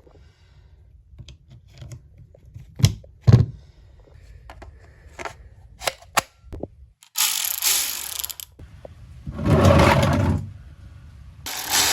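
Metal tools knocking and clanking, with two sharp knocks about three seconds in, then a ratchet wrench clicking in quick runs from about seven seconds on, as the oil drain plug is loosened.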